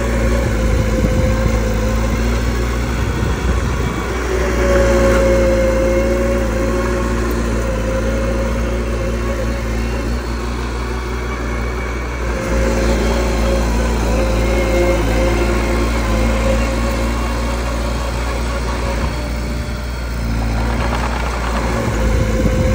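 A small crawler bulldozer's diesel engine running steadily, its level swelling a few times as the machine works.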